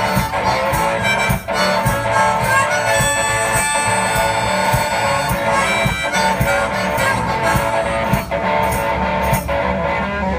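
Blues instrumental from a one-man band: harmonica playing over guitar, with a steady beat.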